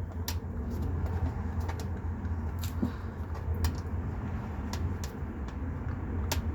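A handful of sharp clicks and taps from car trim parts and plastic clips being handled and fitted, over a steady low rumble.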